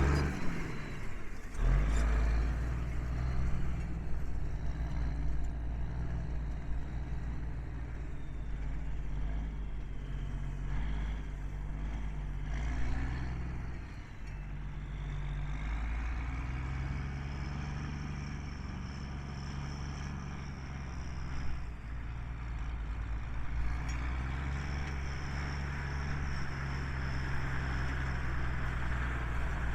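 A 1985 Freightliner truck's diesel engine running with a steady low drone, with a faint high whine coming and going.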